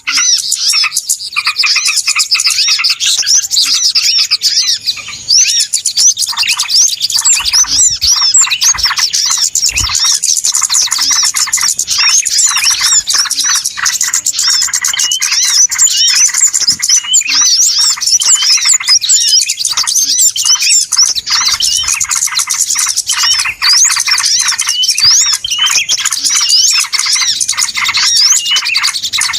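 A dense, noisy chorus of many small birds chirping and twittering at once, with no pauses, of the kind played as a lure call (suara pikat) to draw small birds in.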